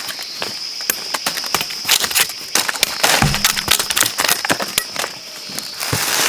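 Dry leaves and twigs crackling and snapping, a run of quick irregular clicks, over a steady high-pitched drone.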